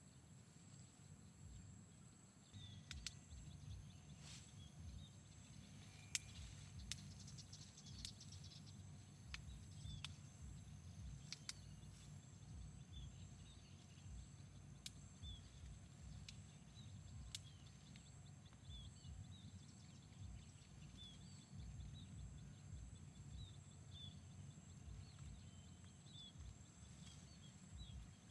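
Faint outdoor ambience of insects: a steady high-pitched drone with short chirps every second or so, and scattered sharp clicks.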